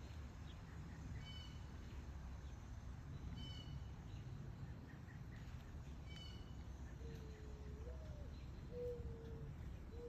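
Birds calling over a steady low background rumble: a short high call repeats every two to three seconds, and from about seven seconds in a low voice gives several slow, drawn-out cooing notes, the second one higher.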